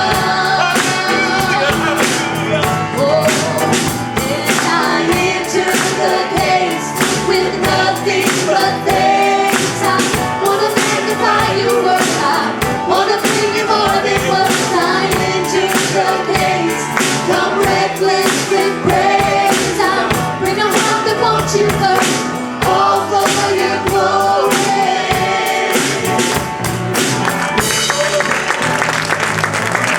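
Live gospel worship music: singers with a band and a steady beat. Near the end the music stops and the congregation applauds.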